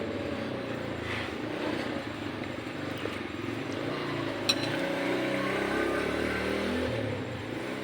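A motor vehicle engine running, its low hum shifting in pitch, with one sharp click about four and a half seconds in.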